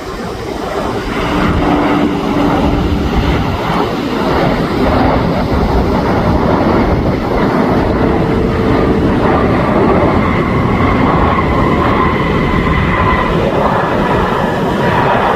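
Embraer E195's twin CF34-10E turbofan engines as the jet passes on its landing: a loud, steady rushing roar that builds about a second in, with faint whining tones that shift in pitch.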